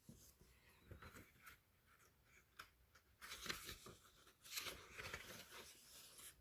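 Faint rustling of paper as a picture book's pages are handled and turned, a few soft crinkles in near silence.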